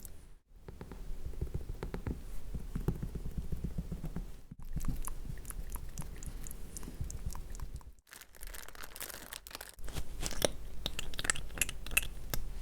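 Close-miked ASMR mouth sounds and crackling textures: dense small wet clicks and crackles, heard as four short edited clips with brief silent gaps between them.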